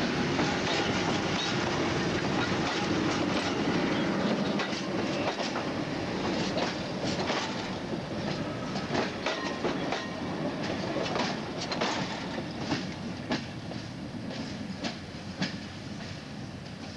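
SP42 diesel locomotive on the move during shunting: a steady engine hum and running noise, then wheels clicking sharply over rail joints and points from about five seconds in. The sound gradually fades as the train draws away.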